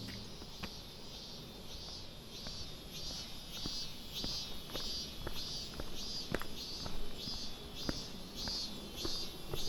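An insect calling in short, high chirps repeated steadily, a little under two a second, with soft footsteps on the trail.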